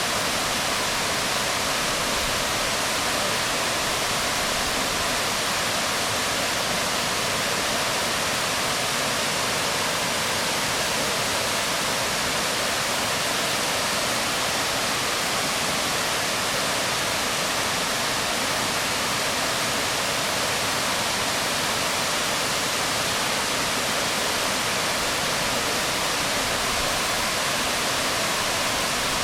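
Waterfall splashing onto rocks: a dense, steady rush of falling water.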